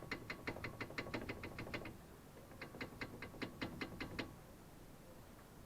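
Toyota front brake caliper rattling as it is shaken by hand: quick, even metallic clicks about seven a second, stopping about two seconds in and starting again briefly. The rattle comes from play in the loose caliper, the same fault that makes it knock over bumps.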